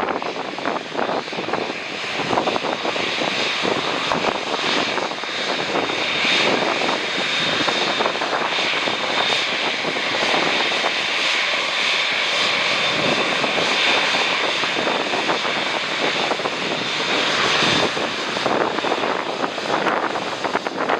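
Jet airliner's engines passing on landing approach: a steady rushing roar with a faint high whine, building a couple of seconds in and easing off near the end.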